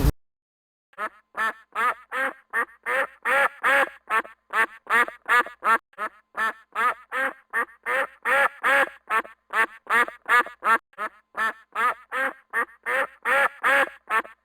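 Duck quacking in a long, steady run of calls, about three a second, starting about a second in.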